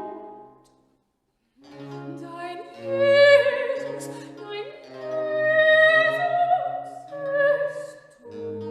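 Classical music with a voice singing long notes with vibrato over instrumental accompaniment, resuming after a brief silence about a second in.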